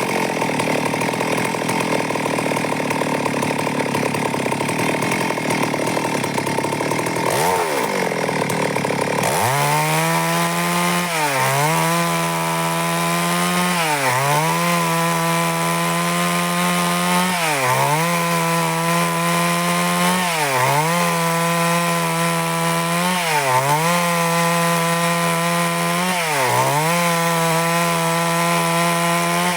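Stihl MS382 two-stroke chainsaw running at full throttle, cutting along a log to saw boards. From about nine seconds in, the engine's pitch sags and recovers roughly every three seconds as the chain bogs under load in the cut.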